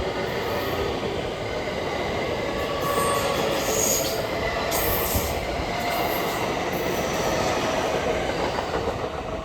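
A train running on the line beside the station: continuous wheel-and-rail rumble with a brief high squeal about four seconds in, easing off slightly near the end.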